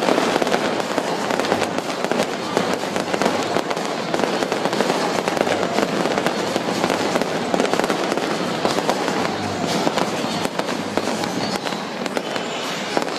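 Large professional fireworks display: a dense, unbroken barrage of bangs and crackles.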